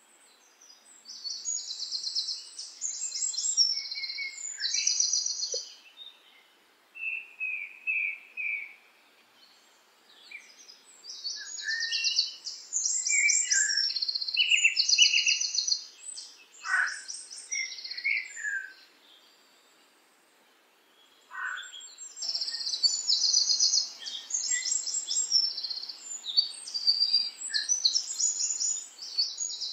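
Birdsong: rapid, high chirping phrases with some lower whistled notes, in three bouts separated by short pauses.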